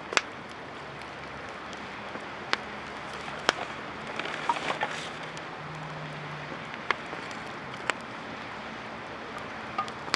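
Campfire crackling: sharp pops and snaps at irregular intervals over a steady hiss.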